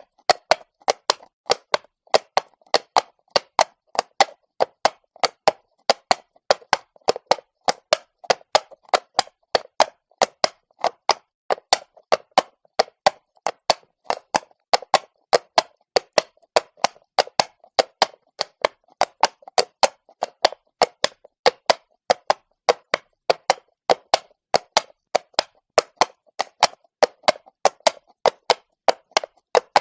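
Horse's hooves striking cobblestones at a walk: a steady run of sharp clip-clop knocks, about three to four a second.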